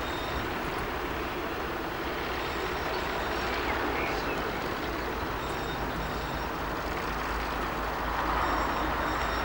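Brush Class 60 diesel locomotive's Mirrlees engine running steadily under power, with a low rumble that grows a little louder near the end.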